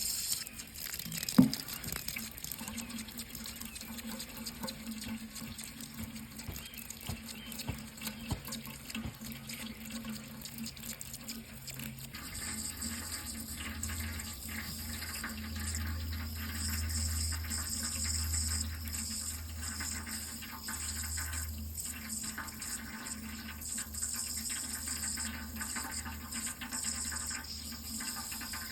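Water running steadily from a tap into a sink, with one sharp knock about a second and a half in.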